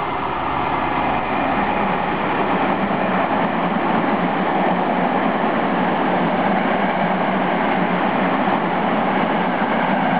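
Tokyo Metro 6000 series electric train running through a station at speed without stopping: steady rolling noise of wheels on rails, building over the first second or two as it arrives and then holding loud while the cars go by.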